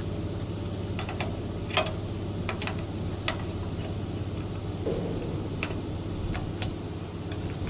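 Scattered sharp clicks and light metal knocks from tools and parts being handled during machine assembly, about eight in all at uneven intervals, over a steady low machinery hum.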